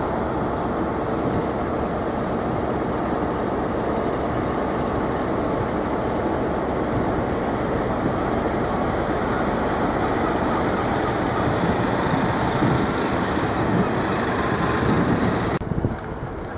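Diesel multiple unit running past a station platform: a steady rumble of engine and wheels on rail that grows a little louder, then cuts off suddenly near the end.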